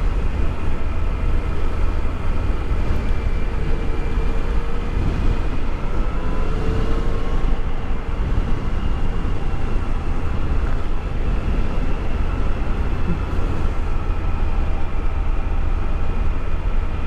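Motorcycle engine running at a steady cruise, its pitch drifting gently up and down through the corners, under a heavy rumble of wind on the microphone.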